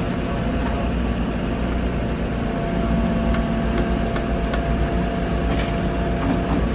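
Heavy equipment's engine running steadily, with a faint steady whine above it and a few light knocks.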